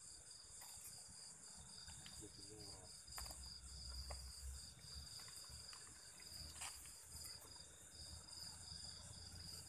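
Faint, steady chirring of insects, a rapid pulsing trill that carries on without a break, with a few faint clicks scattered through it.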